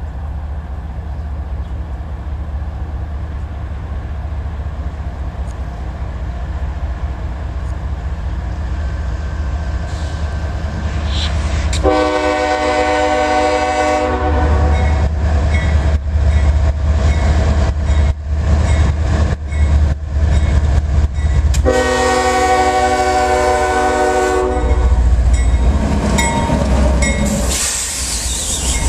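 CSX diesel freight locomotive approaching and passing close by, its engine rumble steadily growing louder. It sounds its horn in two long chords, the first about twelve seconds in and lasting about two seconds, the second about twenty-two seconds in and lasting about three seconds.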